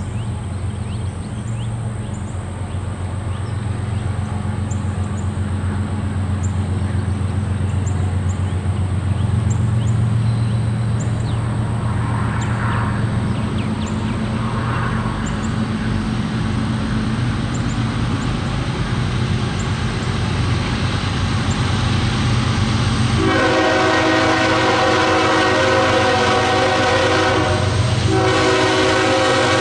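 Approaching freight train's diesel locomotives running with a low drone that grows louder. About three-quarters of the way in, the multi-note locomotive horn sounds a long blast, breaks off briefly, then sounds again.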